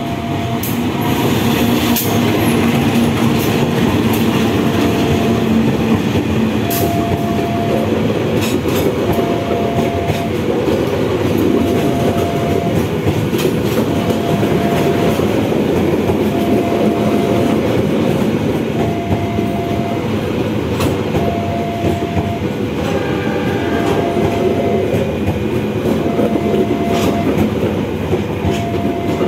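Two CC 201 diesel-electric locomotives run past, followed by a long rake of passenger coaches rolling by with a steady rumble. The wheels clack over the rail joints.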